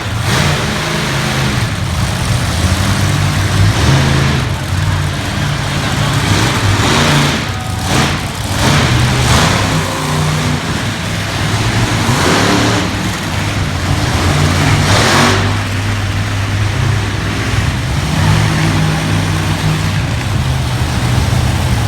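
Monster truck engines running loud and steady, with several brief surges as they rev.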